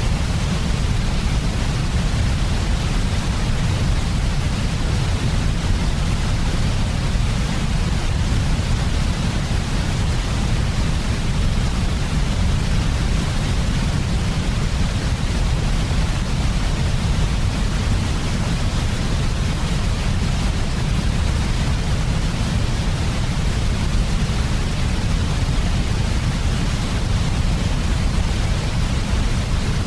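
Steady electronically generated sleep noise: a deep rumble with an even hiss above it, unchanging throughout.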